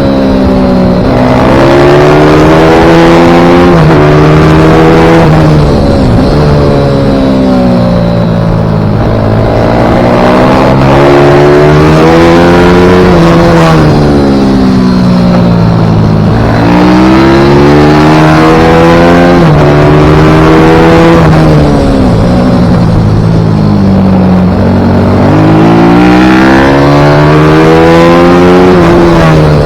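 Pit bike's single-cylinder engine at racing speed, loud throughout, its pitch climbing hard and then dropping away again and again, about every four to five seconds, as the bike accelerates and slows for corners.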